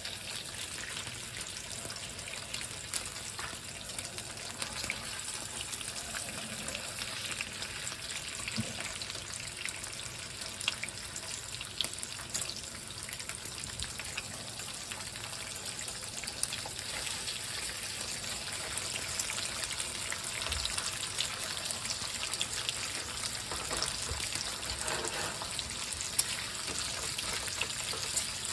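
Food frying in a hot pan: a steady sizzle with many small pops and crackles.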